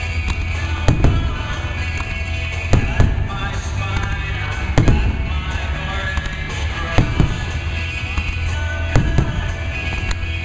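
Fireworks shells bursting, a sharp bang about every two seconds, over loud music with a heavy bass.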